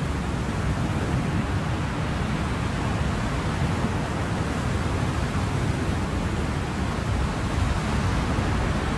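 Ocean surf: a steady, continuous roar of waves with no distinct breaks or swells.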